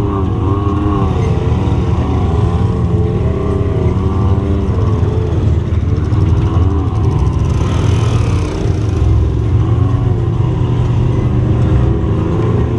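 Off-road vehicle engine running while riding, its revs rising and falling continuously over a steady low rumble.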